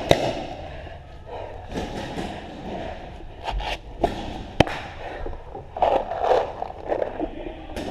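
Paintball markers firing scattered single shots: a sharp pop right at the start, then several more spread between about three and a half and five seconds in.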